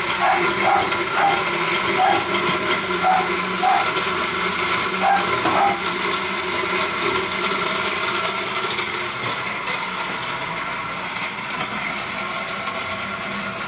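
Electric kitchen blender running steadily, blending a smoothie.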